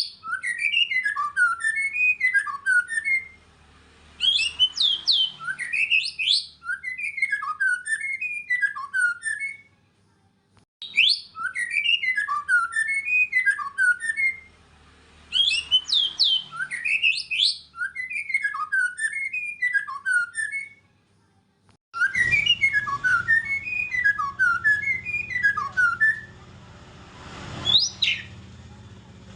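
White-rumped shama in full song: a loud, varied run of fast zigzagging notes, rising whistles and high chips. The same run of phrases repeats about every eleven seconds, with brief pauses between, and a low hum sits under the last few seconds.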